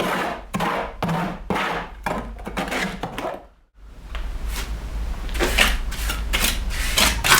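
A trowel scraping and smoothing wet cement mortar spread over reinforcing mesh, in repeated short strokes. There is a brief break a little past halfway, then quicker scraping strokes over a low hum.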